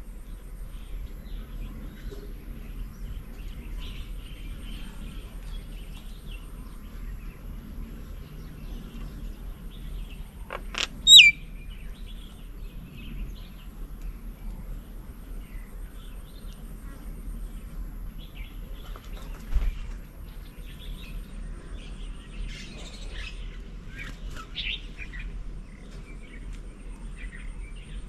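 Birds chirping and calling, mostly faint and scattered, with one loud call about eleven seconds in that sweeps down in pitch. A soft low thump comes near twenty seconds.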